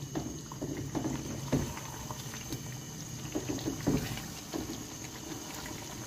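Chicken karahi masala sizzling and bubbling in oil in a nonstick wok on high flame, stirred with a silicone spatula that scrapes and knocks the pan in short, irregular strokes, strongest about a second and a half in and near four seconds. This is the bhuna stage, frying the chicken and masala in oil.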